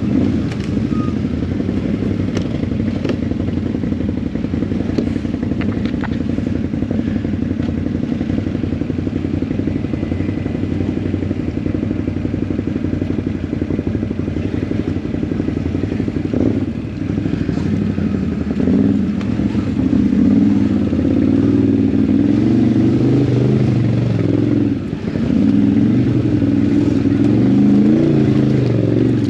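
ATV engine running on the trail, steady at first, then rising and falling repeatedly with throttle changes over the second half.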